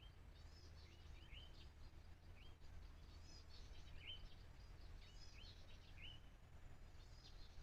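Faint chirping of small birds: short, high calls, some hooking upward, several a second, over a low steady rumble.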